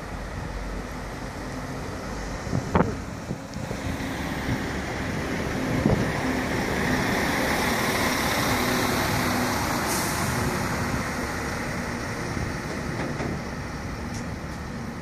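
Network Rail Windhoff multi-purpose vehicle and its wagons passing close by through a station. Its diesel engines hum steadily under the rumble and clatter of wheels on the rails, with a couple of sharp knocks early on. The noise swells to a peak in the middle as the wagons go past, then eases.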